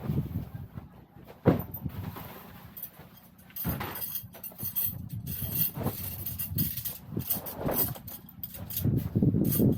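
Wind gusting over the microphone as an uneven low rumble, with scattered clicks and knocks from handling or gear.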